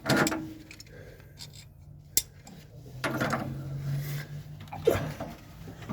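Pipe wrench scraping and grinding on a tight metal pipe fitting, with a few sharp metallic clicks, as the fitting refuses to break loose.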